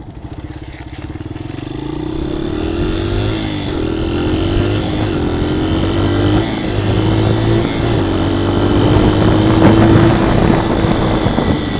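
Dirt bike engine running under way, its note climbing, dipping briefly about three and a half and six and a half seconds in, then holding nearly steady as it grows louder.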